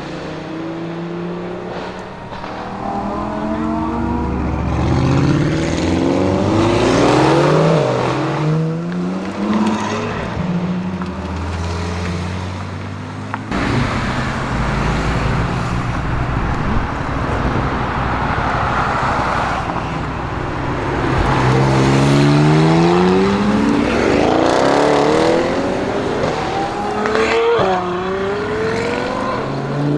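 Twin-turbo V8 of a tuned 840 hp Audi RS Q8 accelerating hard through the gears several times, its pitch rising and then dropping back at each upshift.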